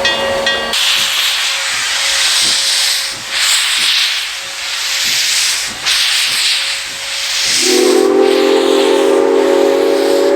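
Steam locomotive venting steam, a hiss that swells and fades in waves for several seconds. About three-quarters of the way in, its steam whistle sounds one long, steady chime-like blast of several notes together.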